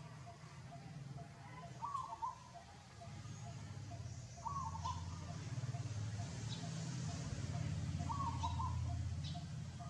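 Short chirping animal calls, three times, over a steady low hum that grows louder partway through.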